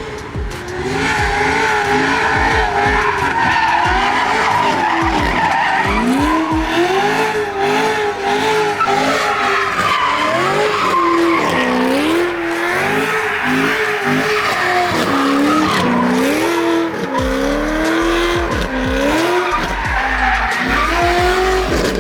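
A car engine revving hard and rising and falling in pitch over and over as the car is held in a drift, with the tires squealing and skidding throughout.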